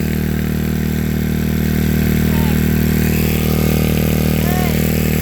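Generator engine running steadily at a constant speed, an even hum with a hiss of wind and snow over it.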